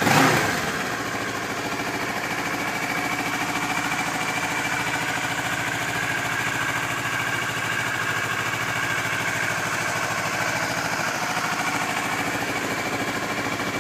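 2011 Kawasaki Ninja 650's fuel-injected 650cc parallel-twin engine idling steadily and evenly after a brief louder burst at the start.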